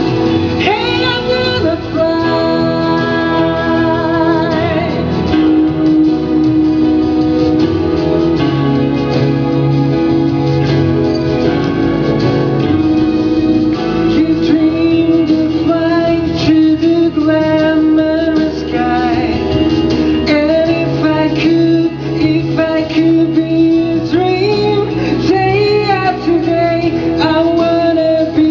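A song with a lead singer's voice holding long, wavering notes over guitar and band accompaniment.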